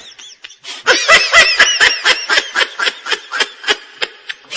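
Recorded laughter sound effect: a run of quick, high-pitched laughs starting about a second in and fading away toward the end.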